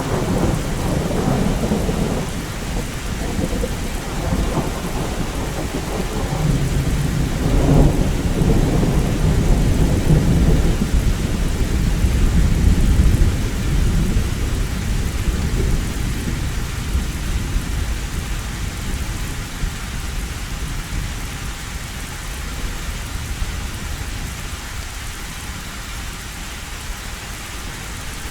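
Heavy rain pattering steadily on a metal roof, with a long roll of thunder rumbling low, loudest about halfway through, then dying away.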